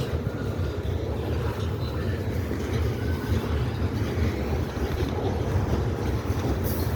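Norfolk Southern freight train cars rolling past, a steady low rumble of wheels on the rails.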